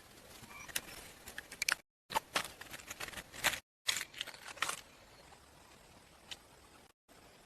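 Clusters of sharp clicks and taps, like small things being handled, broken off by abrupt cuts to silence. After about five seconds they give way to a faint steady hiss, with one more click a little past six seconds.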